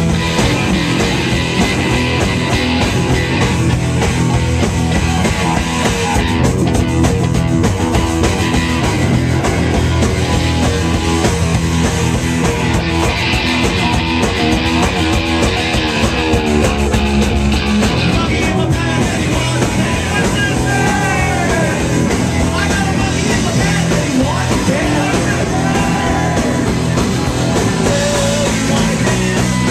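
Loud rock music with electric guitar and drums, with singing.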